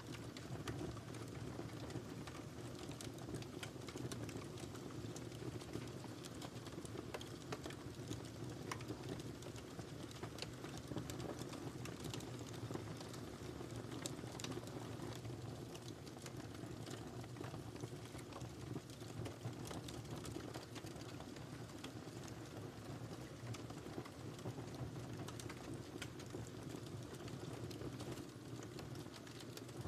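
Wood fire crackling in a fireplace: a steady low rumble of burning, dotted with frequent small crackles and pops at irregular intervals.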